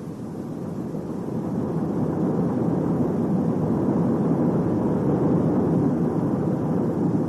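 A steady low rushing rumble with no clear pitch, swelling over the first couple of seconds and then holding.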